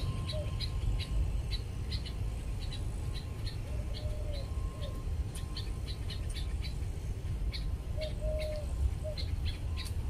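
Small birds chirping in short, quick, high notes throughout, with a lower drawn-out call about every four seconds and a steady low rumble underneath.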